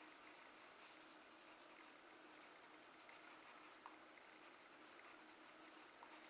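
Faint scratching of a charcoal pencil, its side worked over textured drawing paper to build up leaves, with a couple of small taps.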